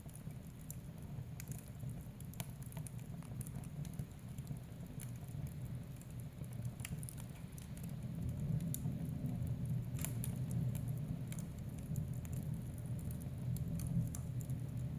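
Wood fire burning in a fireplace: a low steady rumble of flames with many scattered sharp crackles and pops. The fire grows a little louder about halfway through.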